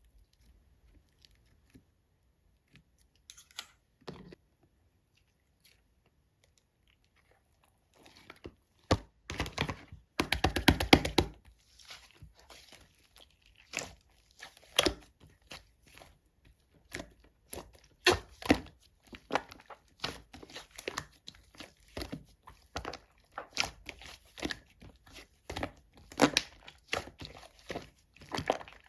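Two-layer slime being worked by hand. It is faint for the first few seconds, then from about nine seconds comes a steady run of sharp clicks and pops, with a fast rattle of them just after the tenth second.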